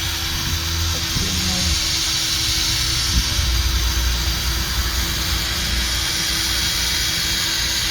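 Electric drill spinning a 500-grit sanding pad against a wet headlight lens: a steady whirring hiss that kicks in suddenly as the drill starts.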